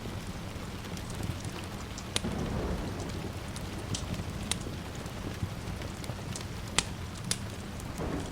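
Steady rain with a wood fire crackling, sharp pops every second or two, and a low swell of distant thunder about two seconds in.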